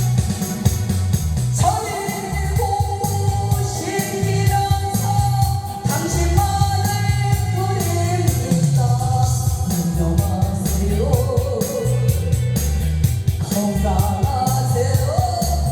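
A person singing a Korean trot song over a karaoke backing track with a steady beat.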